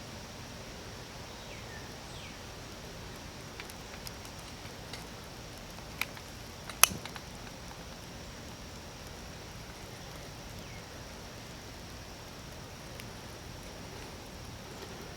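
Outdoor ambience: a steady background hiss with a few faint, short, falling bird chirps, a handful of light ticks, and two sharp clicks about six and seven seconds in, the second the loudest.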